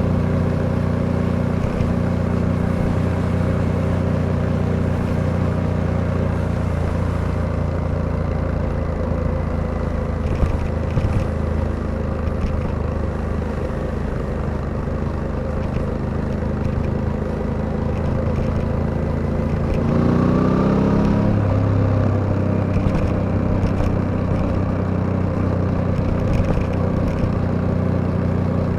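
Suzuki V-Strom 800DE's parallel-twin engine running steadily under way, with wind and road noise. About twenty seconds in it briefly revs up, then settles to a lower pitch through a gear change.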